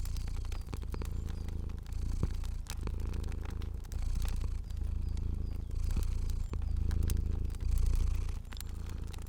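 Domestic cat purring, a low rumble that swells and dips with each breath about once a second, with the sharp crackles and pops of a burning fire scattered throughout.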